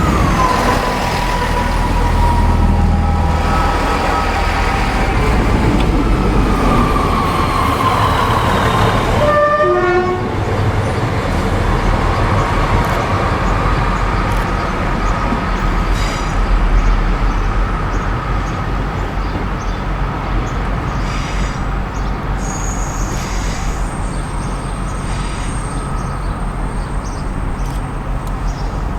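Diesel train running through the station with a heavy, steady engine rumble. A horn sounds at the start, falling in pitch, and a long steady whine runs through much of the rest.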